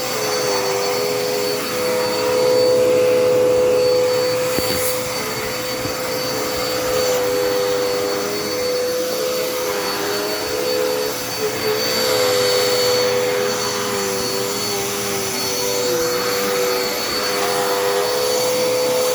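Dirt Devil Endura Reach vacuum cleaner running steadily while it is used on the floor. Its motor makes a steady whine, with a second, slightly lower tone that wavers up and down. The sound swells a little a couple of seconds in.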